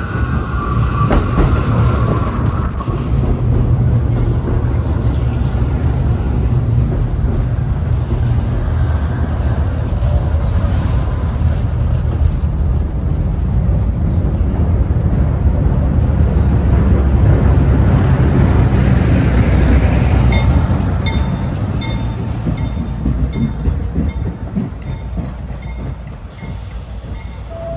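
New York City Subway train running through the station, a steady low rumble of wheels and motors lasting about twenty seconds, then fading. Near the end a run of short, evenly spaced high beeps sounds over it.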